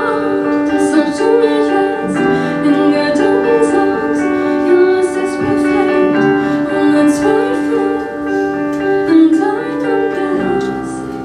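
Live song outro: piano chords under a melody line without words. The music drops in level near the end.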